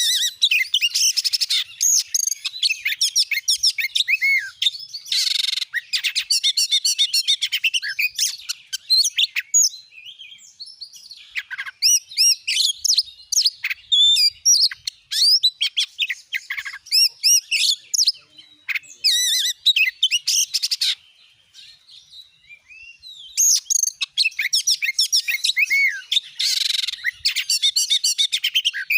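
Oriental magpie-robin (kacer) in full excited song: loud, rapid runs of varied whistles and chattering notes, in bursts with short breaks and a longer pause past the middle. This is the aggressive 'gacor nembak' song that keepers play as a lure to set other kacer singing.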